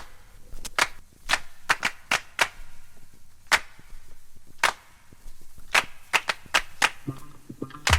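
Sharp handclaps in an uneven, syncopated pattern forming the intro of a 1970s funk-disco song, with a bass line coming in about seven seconds in.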